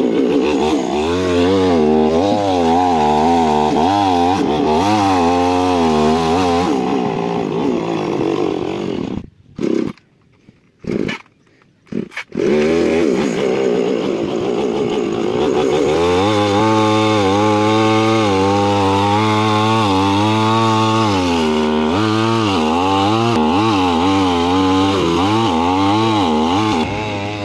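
Chainsaw running under load, its engine pitch wavering up and down as it cuts wood. It cuts out for about three seconds near the middle, then runs on.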